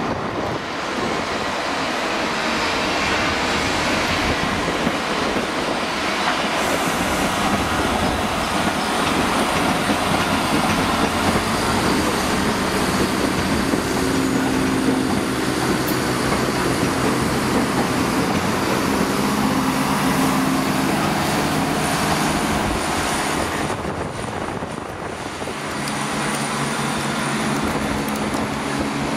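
A Class 769 multiple-unit train running past a station platform: wheels on the rails with an engine hum. The sound stays loud and steady, with a brief dip near the end as the train moves away.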